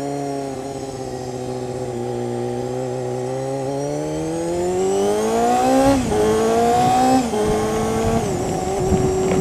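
1992 Honda CBR250RR's 250 cc inline-four engine pulling away, its revs rising steadily and then dropping sharply with upshifts about six and seven seconds in, and once more near the end. Wind and wet-road spray noise builds as speed rises.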